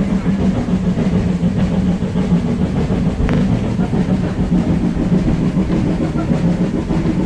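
Train climbing a gradient, heard from inside the carriage: a steady low engine drone over the rumble of the wheels on the rails.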